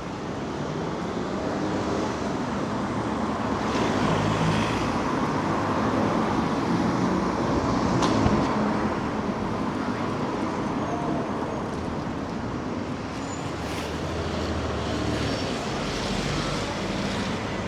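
City street traffic on a wet road: vehicles passing with tyre hiss, the sound swelling to its loudest about halfway through and easing off again.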